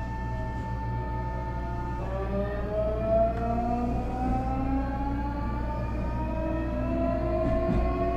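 Nankai 8300 series train's Hitachi two-level IGBT VVVF inverter and Toyo Denki TDK-6315-A totally enclosed induction traction motors whining while the train accelerates. A steady high tone about two seconds in gives way to several tones rising together.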